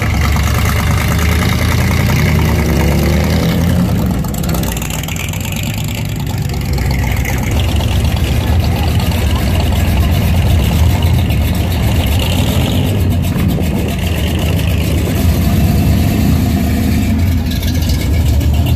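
Hot rod engines running as custom cars drive slowly past: a Chevrolet Advance Design pickup, then a Willys coupe gasser. There is a deep, loud exhaust rumble, with an engine note rising over the first few seconds and a choppy, loping rumble later as the Willys goes by.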